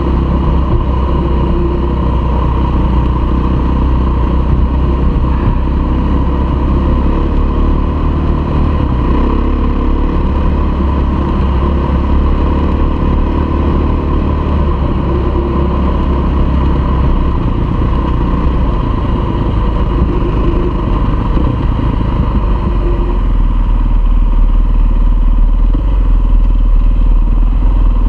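A KTM dirt bike's engine running steadily while riding along a gravel track, heard from on the bike itself, growing a little louder in the last few seconds.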